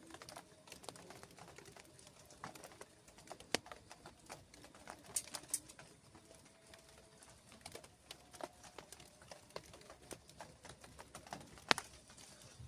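Scattered raindrops and drips ticking irregularly, a few louder than the rest, the sharpest one near the end.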